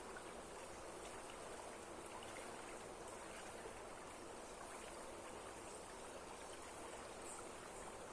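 Waterfall in strong flow, its water rushing in a steady, even wash of noise with no breaks.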